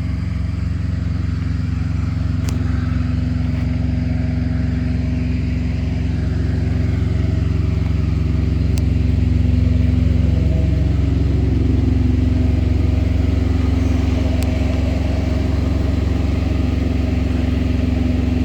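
Semi truck's auxiliary power unit, a small diesel generator engine, running at a steady idle with a constant low drone.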